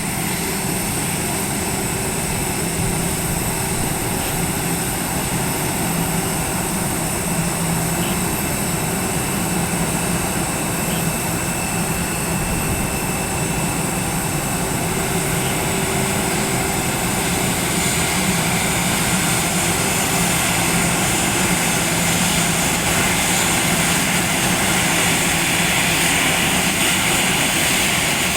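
A Citilink airliner's engines run steadily after landing, with a low steady drone and a high whine above it. The sound swells and brightens somewhat in the second half.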